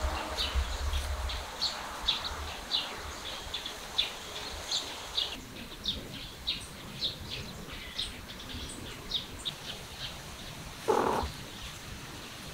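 Small birds chirping, several short high chirps a second, with one brief, louder, lower sound near the end.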